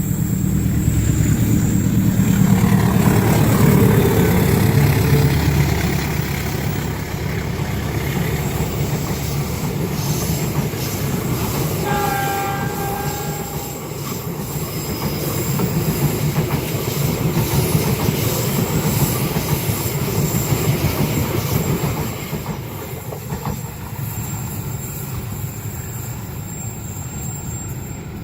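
Train running past on the rails: a loud, steady low rumble of wheels and cars, strongest in the first few seconds. One short horn blast sounds about twelve seconds in.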